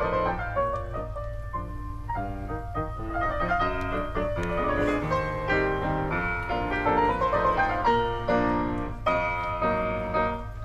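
Solo piano playing a classical-style piece, with quick successions of notes, over a steady low hum.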